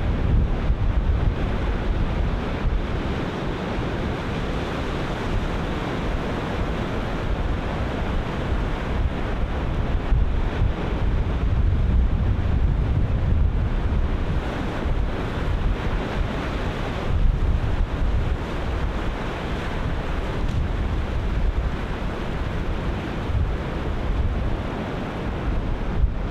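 Ocean surf breaking continuously, a steady wash of waves with a deep rumble, under gusty wind buffeting the microphone.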